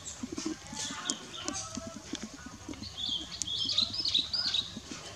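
Birds chirping in short, high warbling phrases, busiest from about three seconds in, over a scatter of light clicks and rustles.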